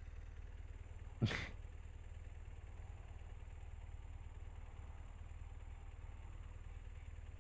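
Motorcycle engine idling as a faint, steady low rumble, with one sharp thump about a second in.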